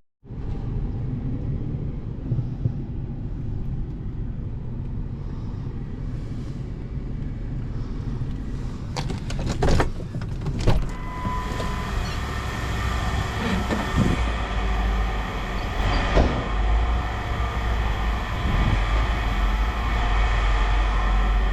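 A vehicle driving: steady engine and road rumble, with a few sharp clicks about nine to eleven seconds in.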